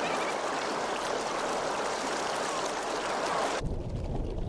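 Steady rushing of churning tidal-rip water. About three and a half seconds in it cuts abruptly to a low rumble.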